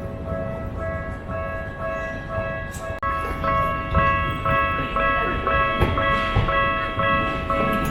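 A simple chiming electronic melody of clear, held notes, with the low rumble of a tram or street traffic underneath.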